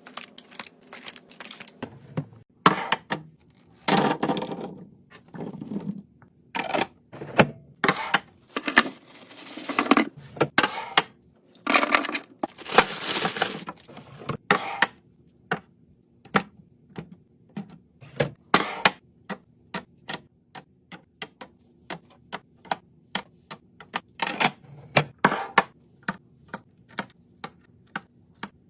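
Containers, jars and packaging being handled and set down while a fridge is restocked: a steady run of small clicks, taps and clatters, with a few longer rustling, crinkling stretches.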